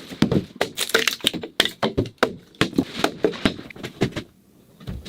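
Hand tools cutting into log wood: a rapid, irregular run of sharp cracks and knocks as a blade bites the timber, with a short pause near the end.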